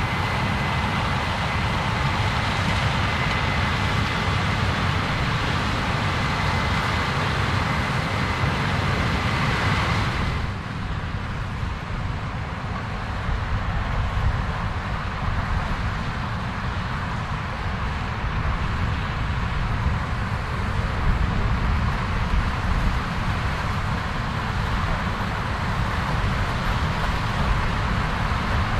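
Heavy farm machinery, combine harvesters and tractors at work in a corn harvest, running steadily. A thin steady whine sits over the engine noise and stops abruptly about ten seconds in, where the sound changes to another machine.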